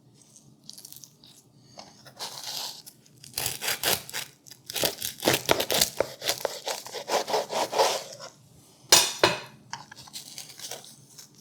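Bread knife sawing through a crusty ciabatta sandwich: a run of quick, crunchy back-and-forth strokes for several seconds, then a single sharp knock about nine seconds in.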